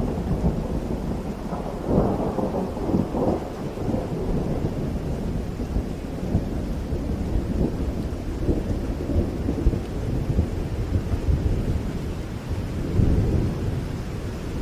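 Rolling thunder over steady rain, the rumble swelling about two seconds in and again near the end.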